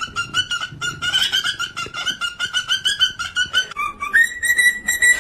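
A parrot calling in a fast run of short, clucking notes, about five a second, then holding one steady, higher whistled note for the last second or so.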